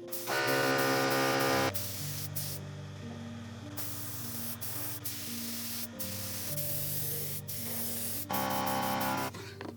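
Aerosol spray can sprayed in two bursts of hiss, one of about a second and a half near the start and a shorter one of about a second near the end.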